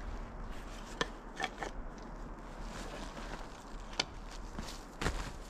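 A few sharp, irregular knocks as felling wedges are tapped and fitted into the tree's cut, trying to stack one wedge on another.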